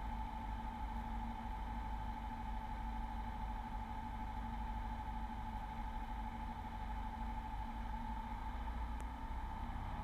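Beechcraft V35 Bonanza's piston engine droning steadily in the cockpit on final approach for landing, an even low rumble with a steady hum over it.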